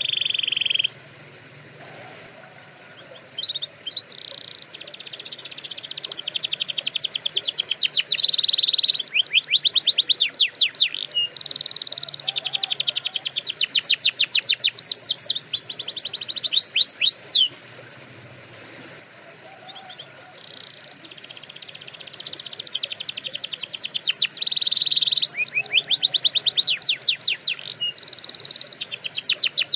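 Domestic canary singing a long song of rapid trills and fast repeated sweeping notes, high-pitched, broken by two short pauses: about a second in and about halfway through.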